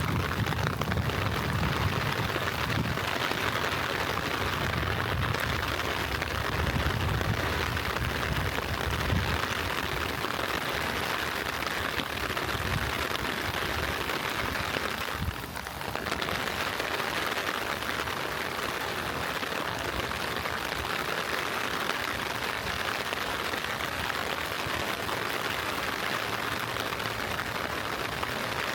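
Steady light rain falling, an even hiss, with a low rumble under it for the first several seconds that fades out.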